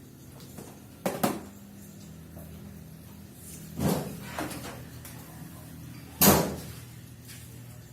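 Kitchen door being opened and shut while food is put away: three sharp knocks, a double one about a second in, another near four seconds, and the loudest about six seconds in, over a steady low hum.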